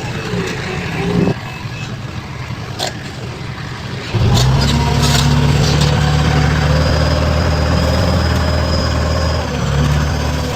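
Heavy diesel engine of earthmoving or haulage machinery running. It is quieter at first, then gets much louder and holds steady from about four seconds in, with a few sharp metallic clicks along the way.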